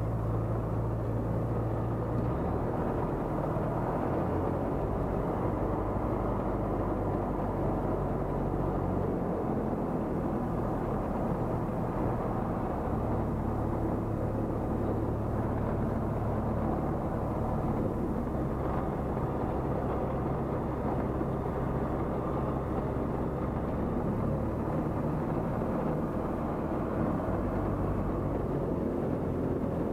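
Light aircraft's piston engine and propeller running steadily at low power on the runway, the pitch shifting slightly about two seconds in.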